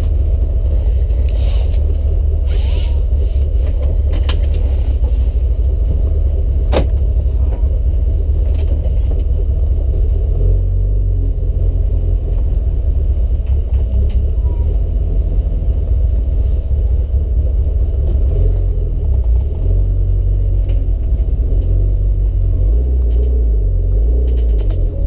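Mitsubishi Lancer Evolution VIII's turbocharged four-cylinder engine, heard from inside the cabin, running at low revs off boost while a new clutch is being broken in. Its low rumble grows heavier about ten seconds in, and a few light clicks sound in the first seven seconds.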